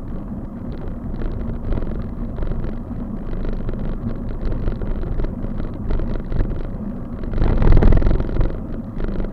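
Wind buffeting the microphone over a steady road rumble while riding along a road, with a louder swell of noise about seven and a half seconds in.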